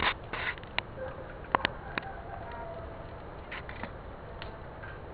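Campfire burning with irregular crackles and sharp pops of burning wood, most of them in the first two seconds, over a low steady background.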